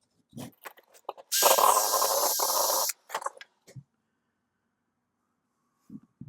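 A few small clicks and knocks, then a loud, steady hiss lasting about a second and a half, followed by more scattered clicks and knocks.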